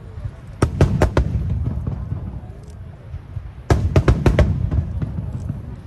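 Aerial firework shells bursting in two quick volleys of sharp bangs, about four just under a second in and about six more near four seconds in, over a continuous low rumble.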